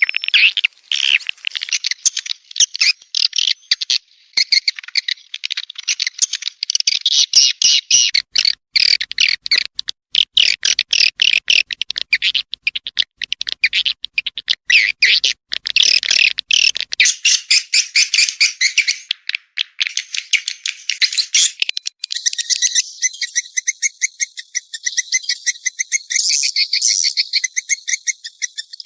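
Swiftlet lure-call recording: dense, rapid chirping and twittering of swiftlets, shifting about three-quarters of the way through to a denser, more even twitter.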